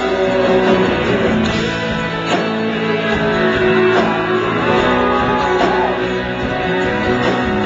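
Live country band playing an instrumental break between verses, with guitar to the fore.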